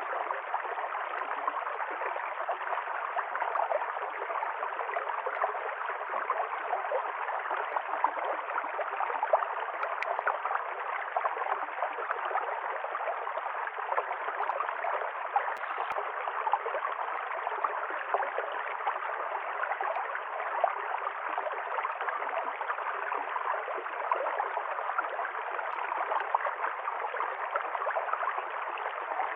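River stream flowing and gurgling steadily, a constant rush of water with small splashes.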